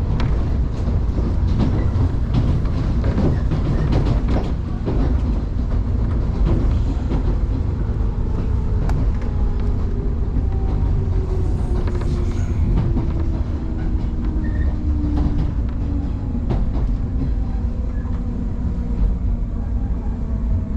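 Electric train running on the rails, heard from inside the car. Wheels clack over rail joints in the first few seconds, then a falling whine comes in about ten seconds in as the train slows for the station.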